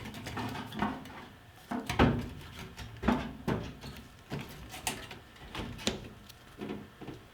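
Irregular knocks, clunks and rattles of hands working a fuel pump module and its plastic fuel tank, about a dozen strokes with the loudest about two and three seconds in.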